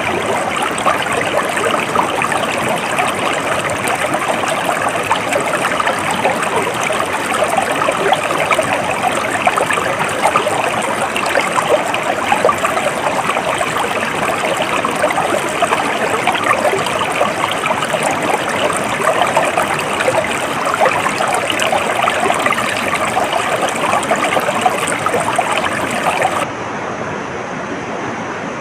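Water of a stream flowing and splashing steadily. Near the end the sound changes abruptly to a duller, slightly quieter rush.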